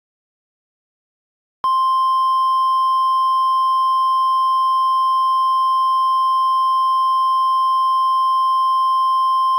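Near silence for the first second and a half, then the NOAA Weather Radio warning alarm tone: a single steady high beep of about 1050 Hz that starts abruptly and holds without a break, signalling that a warning, here a tornado emergency, is about to be read.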